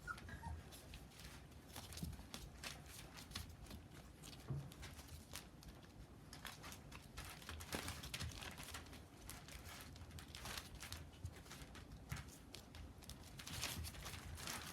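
Rough Collie puppies, 26 days old, moving about and mouthing at each other, making faint, irregular clicks and scuffles.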